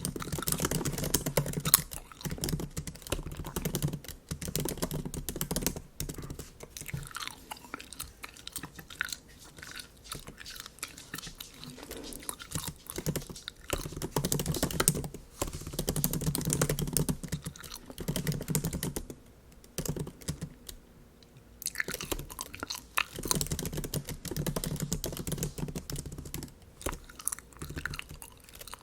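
Bubble gum being chewed close to the microphone, mixed with the clicking of typing on a MacBook keyboard. The sound drops to a brief lull about two-thirds of the way through.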